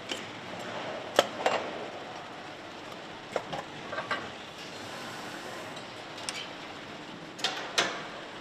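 Metal parts clinking and clanking against each other in pairs of sharp knocks, the loudest about a second in, over a steady factory-floor background noise.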